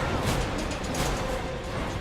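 Film score music over a dense mix of rumbling machinery and impact sound effects.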